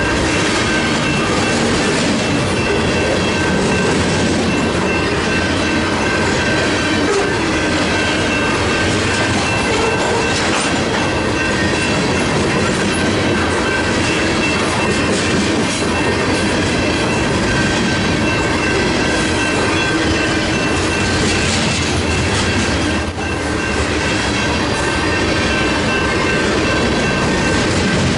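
CN potash train's covered hopper cars rolling past at a steady speed, with wheels clattering on the rails and a steady high ringing tone over the rumble.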